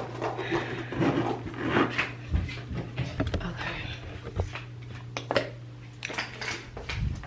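Small hard objects being handled and rummaged through: scattered clicks and clatter with a few dull thumps, over a steady low hum.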